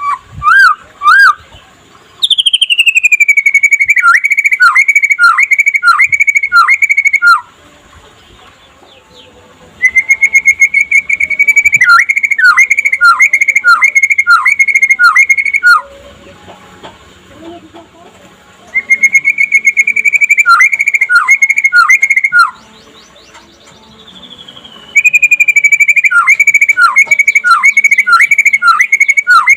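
White-rumped shama (murai batu) singing its 'trotol' song: four loud phrases of a few seconds each, every one a long whistled note followed by a run of quick down-slurred notes, about two a second, with pauses of two to three seconds between phrases.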